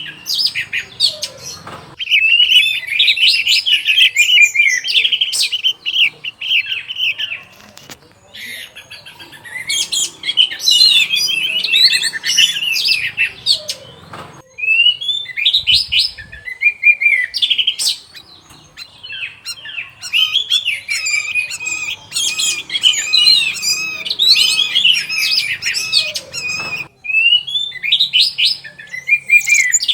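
Orange-headed thrush singing a rapid, varied warbling song in long runs, with short breaks between runs.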